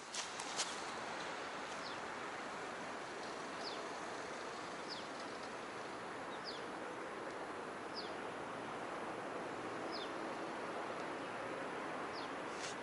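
Night-time outdoor ambience: a steady hiss with a few faint clicks at the start, and a short, high, falling chirp repeating about every one and a half seconds.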